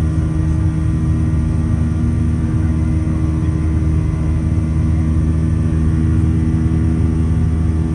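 Boeing 737-800 passenger cabin noise: the steady low drone of the CFM56 jet engines and airflow, with a faint high whine.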